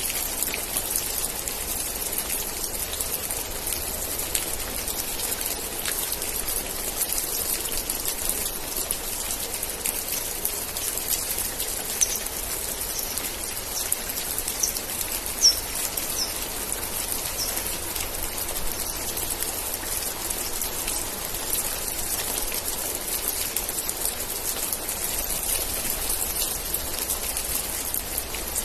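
Steady rain falling, a continuous hiss with many close individual drops ticking. About halfway through, a run of about seven short high chirps sounds over five or six seconds.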